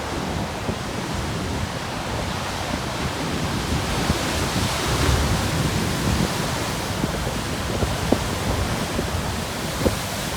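Large ocean waves breaking and churning on a rocky shore at high tide, a continuous roar of surf that swells about halfway through. Wind buffets the microphone, and there are a few short sharp spatters near the end.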